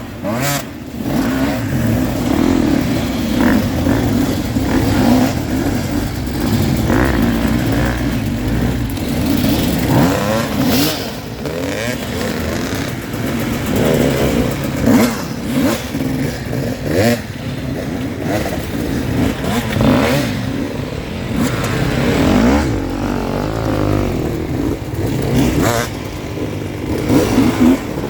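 Enduro dirt bike engines revving hard and dropping back again and again, the throttle blipped in short bursts as the bikes claw over rough ground.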